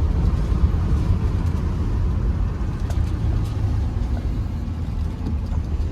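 Steady low road rumble of a moving car heard from inside the cabin.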